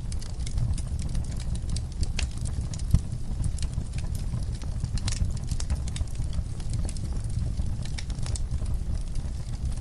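Wood fire burning in a fireplace: irregular crackles and sharp pops over a steady low rumble of the flames, with one louder pop about three seconds in.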